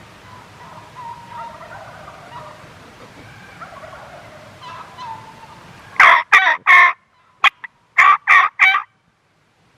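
Merriam's wild turkeys gobbling: faint and distant warbling calls for the first five seconds, then two loud, close groups of three sharp calls about six and eight seconds in.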